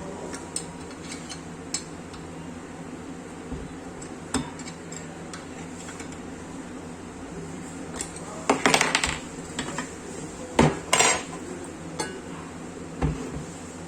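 Metal parts and tools clinking and clattering as an angle grinder is taken apart by hand, over a steady low hum. Scattered light clicks run throughout, with louder clusters of clatter a little past halfway and again about three-quarters through.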